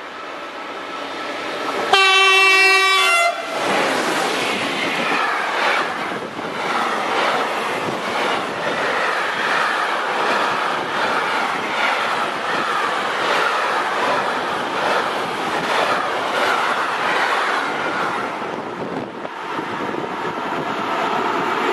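Intermodal freight train sounding its horn once, a blast of just over a second about two seconds in, then passing at speed with wheels and wagons clattering steadily over the rails.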